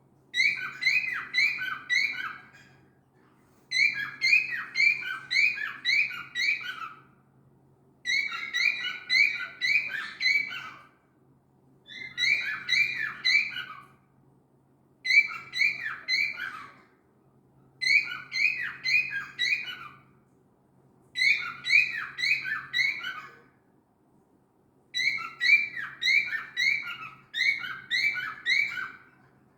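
Cockatiel calling loudly in repeated bouts, each a quick string of four to six shrill, chirping calls, the bouts coming every three to four seconds with short pauses between. A faint steady low hum sits underneath.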